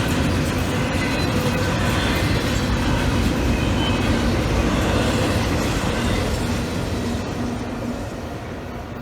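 Cars of a CSX intermodal freight train rolling past, wheels clattering on the rails. The sound fades over the last two seconds.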